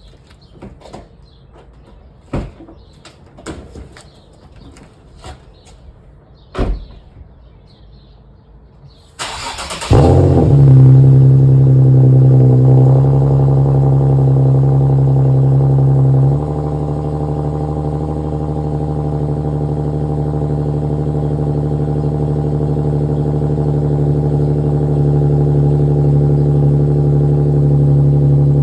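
Infiniti G37 coupe's 3.7-litre V6 cold-starting through a muffler-delete exhaust. After a few faint clicks, the starter cranks briefly about nine seconds in and the engine catches loudly into a high cold-start idle. About six seconds later the idle drops to a lower, quieter idle that runs steady.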